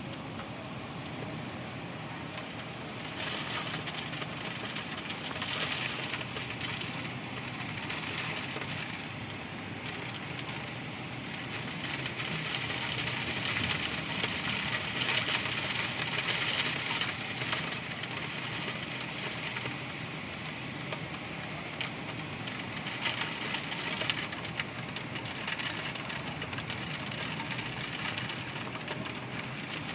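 Heavy rain pouring down: a dense, steady hiss that grows heavier about three seconds in and is heaviest around the middle.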